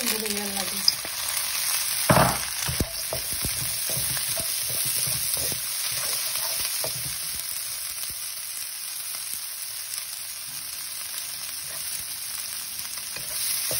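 Peas and sliced onions sizzling in hot oil in a wok over high heat, with a sudden loud burst about two seconds in as the peas go in. A wooden spatula then clicks and scrapes against the wok as they are stirred, over the steady frying hiss.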